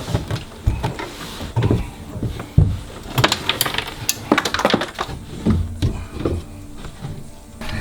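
Irregular thumps, knocks and clattering of people moving about and climbing up into an attic, thickest in the middle.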